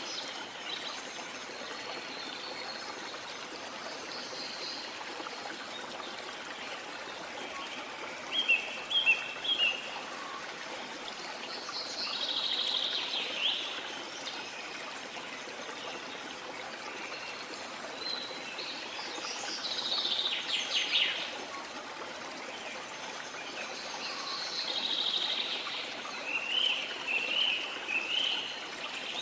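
Steady rush of waterfall water, with birds calling over it in several separate bursts of high chirps and calls, the loudest a quick run of chirps about eight seconds in.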